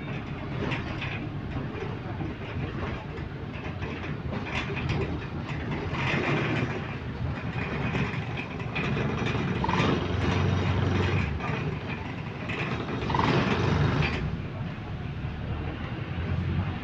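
Interior of a single-deck bus under way: a steady engine and drivetrain drone with road noise and rattling from the body and fittings.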